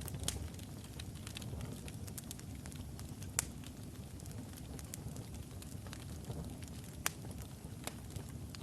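Wood fire in a fireplace, burning logs crackling with scattered sharp pops over a steady low rumble of the flames. The loudest pops come about a third of a second in, about three and a half seconds in, and about seven seconds in.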